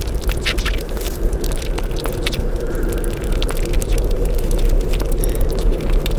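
Close-miked chewing and mouth sounds of someone eating sweets, played back at five times speed: a dense, rapid run of crackly clicks and smacks over a steady low rumble.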